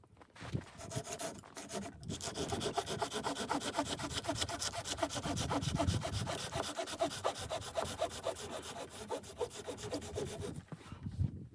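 Hand saw cutting through wood with quick, even back-and-forth strokes, starting about two seconds in and stopping shortly before the end.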